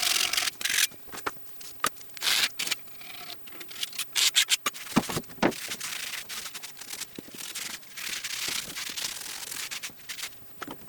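Hand scraping of the turbine casing's machined joint face, a run of uneven scratchy rubbing strokes as old liquid-gasket residue is cleaned off.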